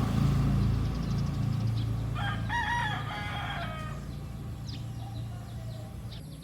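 A rooster crowing once, a call of about a second and a half starting about two seconds in, over a steady low hum.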